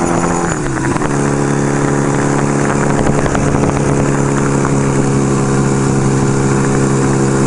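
1975 Kawasaki KZ400's parallel-twin engine running steadily under way. Its pitch drops about a second in, then holds steady at lower revs.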